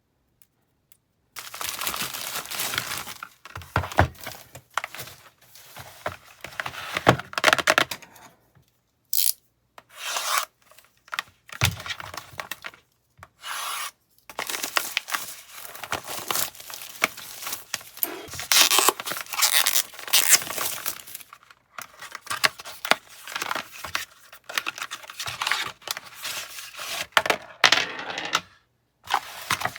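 Plastic packaging crinkling and tearing as small parcels are unwrapped by hand, in stretches with short pauses and a few sharp clicks.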